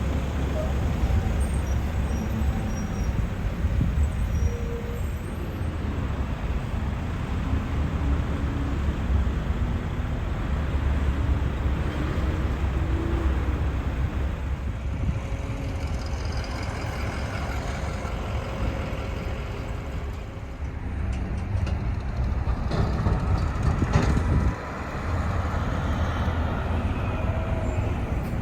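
Diesel garbage trucks running and driving past with a steady low engine rumble, and a brief loud burst a few seconds before the end.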